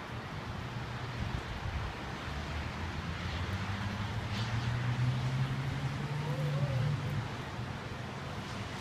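Strong thunderstorm wind rushing steadily. A low droning hum swells in the middle for a few seconds, then fades.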